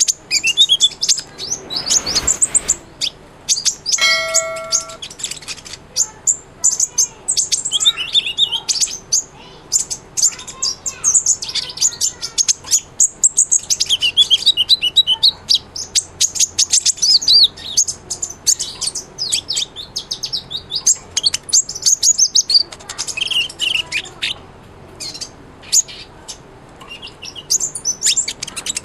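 Kolibri ninja sunbird singing: a fast, busy run of high, thin chirps and trills, with hardly a pause. About four seconds in, a short steady chime-like tone sounds for about a second.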